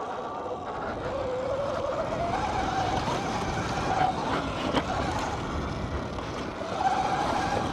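Sur-Ron electric dirt bike's motor whining, climbing in pitch as it accelerates, easing off midway and climbing again near the end, over rough tyre and wind noise with a few knocks.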